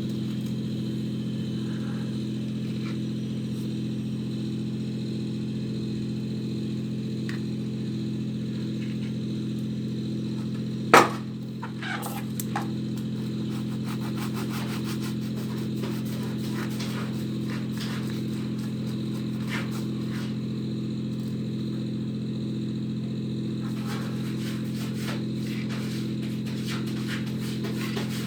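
A steady low machine hum with one sharp knock about eleven seconds in, followed by a few lighter clicks and taps.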